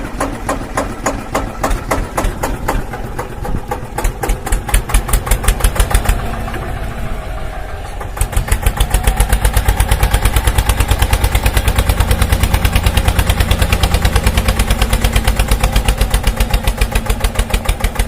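Tractor engine chugging with an even, pulsing beat; about eight seconds in it gets louder and settles into a steady fast rhythm.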